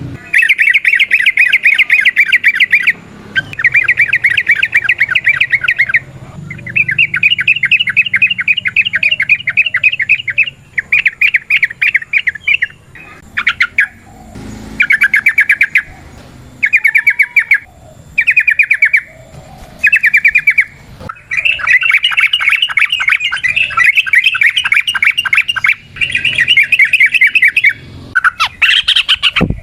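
Yellow-vented bulbul (trucukan) singing long, fast chattering runs of rapid repeated notes, a dozen or so strings of one to five seconds each with brief pauses between.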